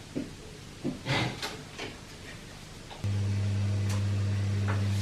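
A few light knocks and clicks, then about three seconds in an electrical appliance switches on with a steady low hum.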